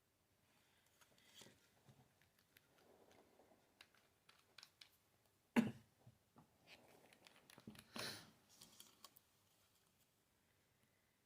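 Quiet handling sounds as nail polish is swatched: scattered light clicks and taps of bottles and a swatch wheel, with a sharper knock about halfway through and a brief scrape a few seconds later.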